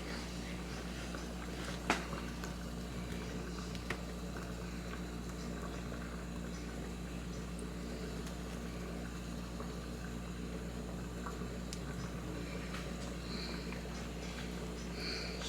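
Steady low hum with faint background noise, broken by a soft click about two seconds in and another about four seconds in.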